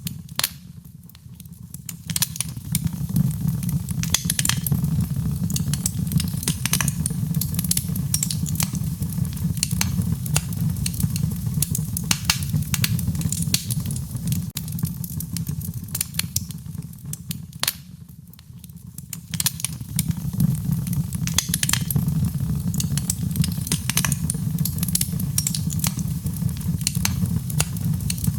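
Wood fire burning: dense, irregular crackles and pops over a steady low rumble. The fire goes briefly quieter near the start and again about two-thirds of the way through.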